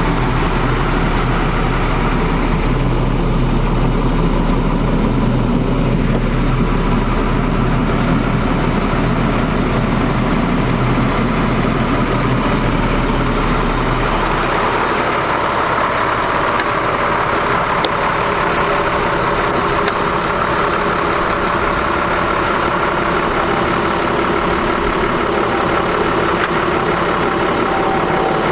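Caterpillar C7 diesel engine of a Ford F750 bucket truck running at idle. About halfway through the sound changes: the deepest hum drops away and a higher, steadier tone comes up.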